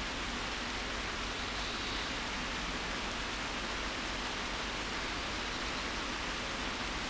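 Steady, even rainfall, a continuous hiss of rain with no single drops or gusts standing out.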